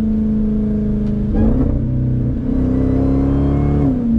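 Jeep Grand Cherokee Trackhawk's supercharged 6.2-litre V8 running while driving, a steady engine note that climbs a little and then drops back near the end.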